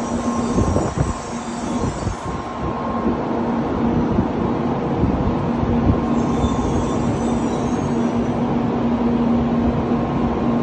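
N700A Shinkansen train moving slowly alongside the platform, a steady rumble with a constant electric hum, and faint high wheel or brake squeals twice.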